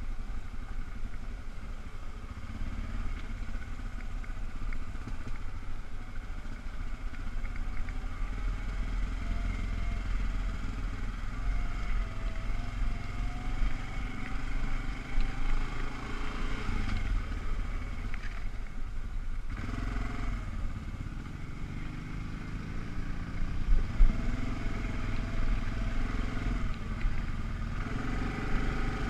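ATV engine running under way, its pitch rising and falling as the throttle is worked, over a steady rumble. One sharp knock stands out late on.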